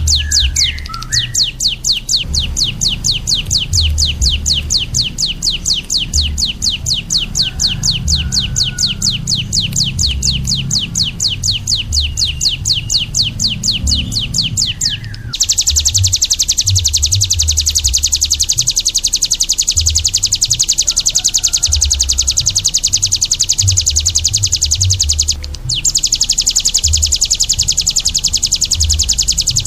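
Songbird singing a fast run of evenly repeated high, sharp notes, then about halfway through switching to a dense, continuous high buzzing trill that breaks off briefly once near the end.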